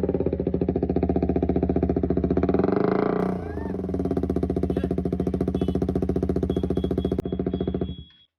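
KTM RC 125's single-cylinder engine running through an aftermarket Akrapovic exhaust, with a short rev a couple of seconds in that falls back to a steady idle; the sound cuts off abruptly near the end.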